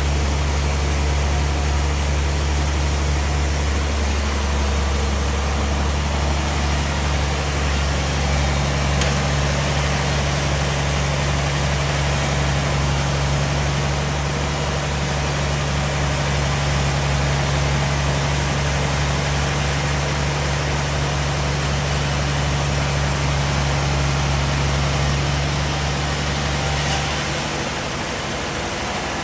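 A heavy machine engine running steadily with a low hum and a wash of mechanical noise. The low hum drops away near the end.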